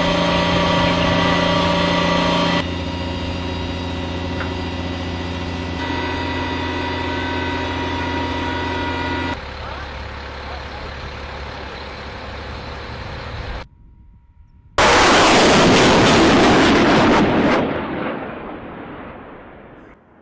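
Heavy vehicle engine running steadily across several cuts. About 15 s in, a sudden loud rushing roar of a rocket launch that lasts a few seconds and then fades away.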